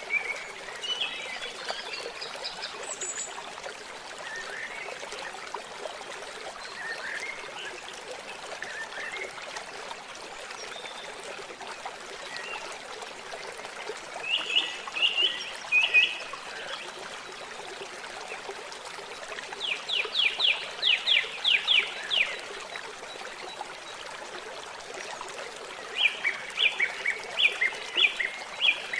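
Water trickling steadily, with rapid series of short chirping calls breaking in three times in the second half.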